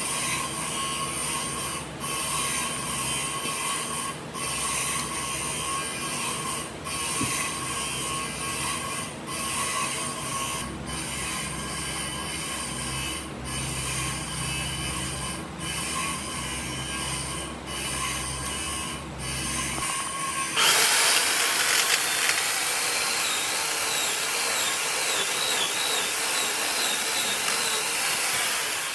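Woodworking power tools running, with short breaks about every two seconds. About two-thirds of the way through it switches to a louder, higher-pitched hissing sound.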